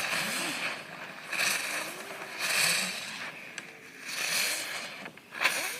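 Jack-in-the-box ground firework spraying sparks, hissing in about five surges that each swell and fade within a second or so.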